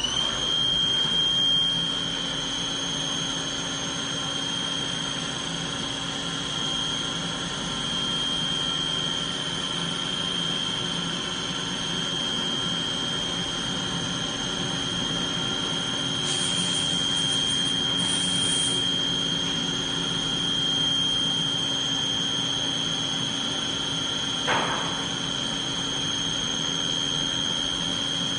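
CNC machine spindle running at a steady high-pitched whine. There are two short hissing bursts a little past halfway and a brief knock near the end.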